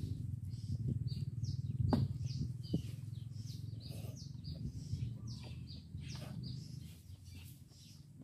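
Small birds chirping: short high-pitched chirps, several a second, over a low steady hum.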